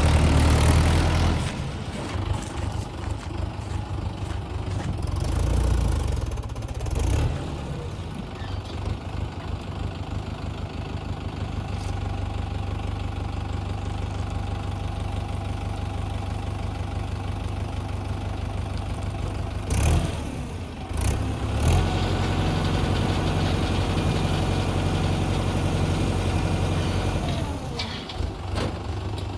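Heavy diesel engine running steadily near idle, its note rising and swelling a few times: at the start, around six seconds in and again around twenty seconds in.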